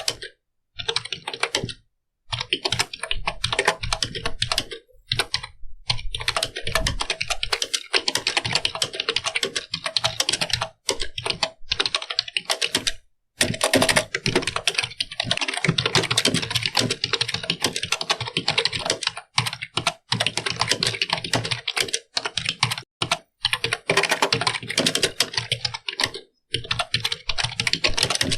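Computer keyboard being typed on: fast runs of key clicks, broken by brief pauses of under a second every few seconds.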